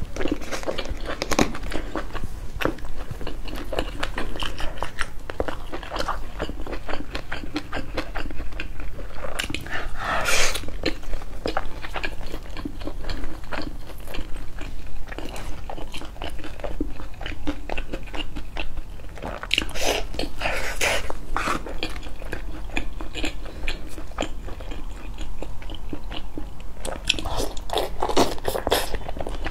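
Close-miked eating: a person chewing and biting fried battered skewers and oden, with crunching bites and steady chewing, and a few louder bursts about a third of the way in, two-thirds in and near the end.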